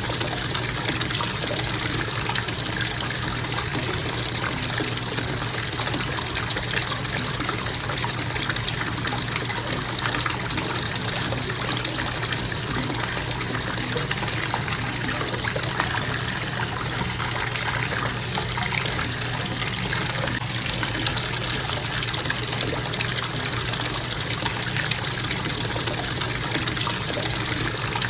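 Bathtub faucet running steadily, water pouring into the tub in an even, unbroken flow.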